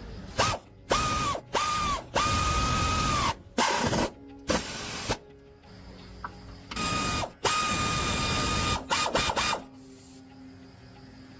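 Pneumatic impact wrench run in about nine short bursts, each spinning up quickly to a steady whine with an air rush and dropping off when the trigger is released. This fits wheel or axle nuts being run off or on.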